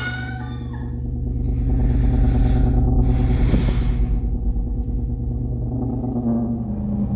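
A steady low rumbling drone, with two bursts of hissing noise in the middle.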